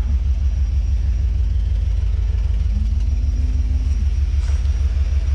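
1994 GMC C3500HD truck engine idling with a steady low rumble; a little under three seconds in, a tone rises, holds for about a second, then drops back.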